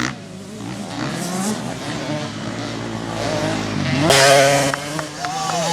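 Motocross bike engines running at race speed, one revving up sharply about four seconds in.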